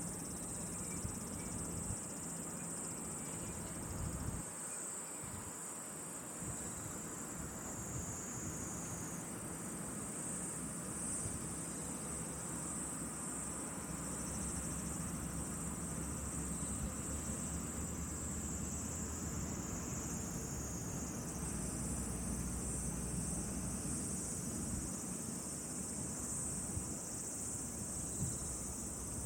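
A chorus of insects, likely crickets, trilling steadily at a high pitch.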